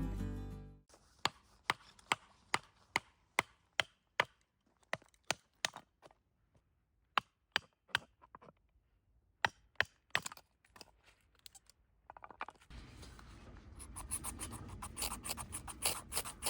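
Firewood giving sharp cracks and pops, about two a second at first and then more sparsely. About 13 seconds in, a steady crackling hiss sets in.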